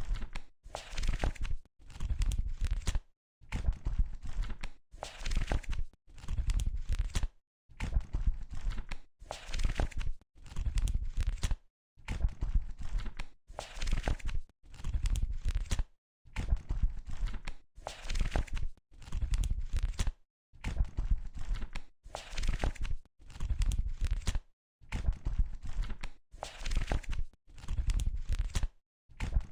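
Pages of a book being flipped: a run of papery rustles, each lasting a second or so, cut off by brief silences and coming about every two seconds.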